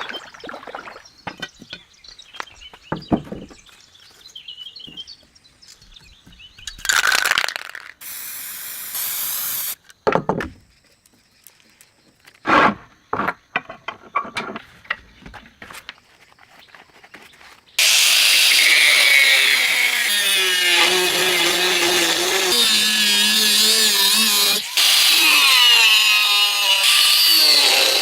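Scattered light knocks and clicks of workshop handling, then, about two-thirds of the way in, a power tool starts grinding a steel knife blade: a loud continuous grinding with a wavering pitch as it bears on the metal.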